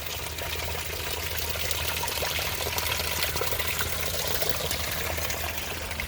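A strong natural spring's water running and trickling steadily.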